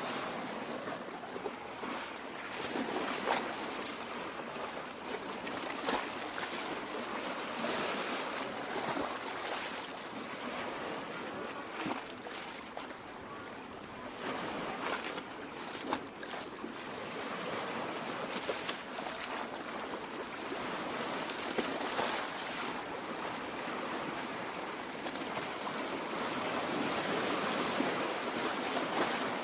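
Lake water lapping at the shore: a steady wash of small waves with occasional brief splashes.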